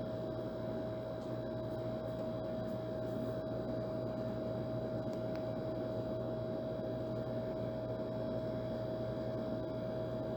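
Old air conditioner running steadily: an even rush of fan noise with a constant hum and a steady tone above it.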